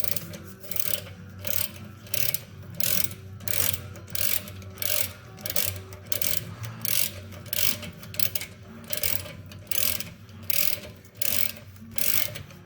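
Socket ratchet clicking in short bursts about twice a second as it is swung back and forth, loosening the front brake caliper bolts of a Jeep Grand Cherokee with a 7/16 hex socket.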